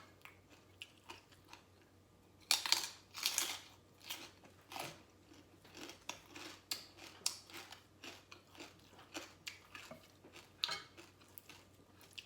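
Close-up chewing and crunching of crispy pork rinds: a few loud crunchy bites a couple of seconds in, then a run of smaller crunches and wet mouth clicks.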